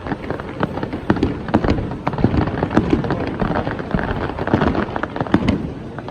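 Fireworks display going off: a rapid, irregular run of bangs and crackles, several a second, over a continuous low rumble.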